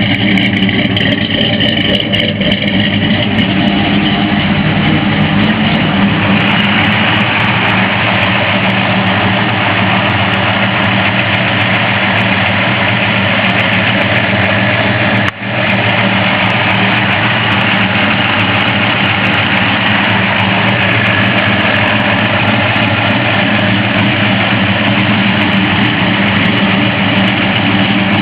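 Ford 5.0 V8 (1995 Mustang Cobra engine, B303 cam, chrome headers, 2.5-inch exhaust with H-pipe) idling steadily in a 1965 Ford F100. The sound cuts out for a moment about halfway through.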